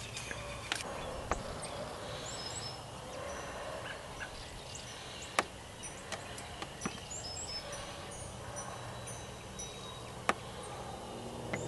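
Outdoor ambience of scattered small-bird chirps and calls over a low steady hum, with a few sharp clicks, the loudest about five and ten seconds in.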